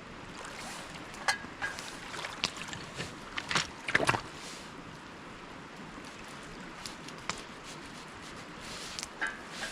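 Shoreline water trickling and lapping around the rocks as the tide comes in, as a steady hiss. A few sharp clicks and knocks come through it, the loudest pair about four seconds in and another just before the end.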